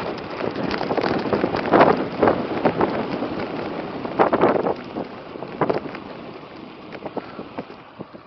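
Wind buffeting the microphone of a camera riding along on a bicycle, with irregular knocks and rattles; louder in the first half, easing off after about five seconds.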